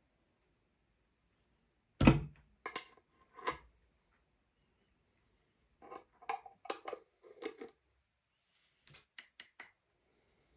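Spoon knocking and scraping against a dish of curd in short, scattered clusters: a loud knock about two seconds in, a run of knocks and scrapes from about six to seven and a half seconds, and a few sharp clicks near the end.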